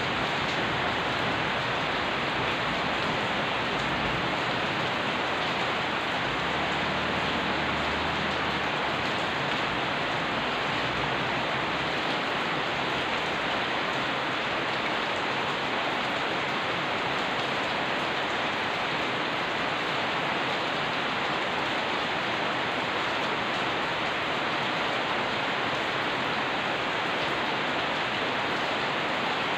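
Heavy rain falling steadily on a street, roofs and a wet ledge, an even, unbroken hiss. A faint low rumble sits underneath during the first ten seconds or so.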